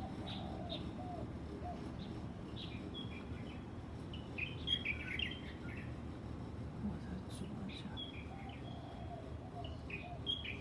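Small birds chirping: short high calls come in clusters, busiest about four to five seconds in and again near the end, over a steady low background rumble.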